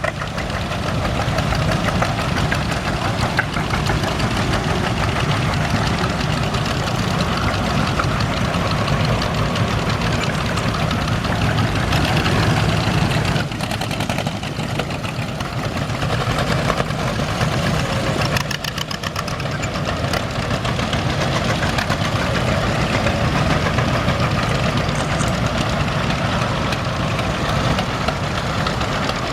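Several farm tractor engines running together as a line of tractors moves off, a steady low chugging with engines passing close by.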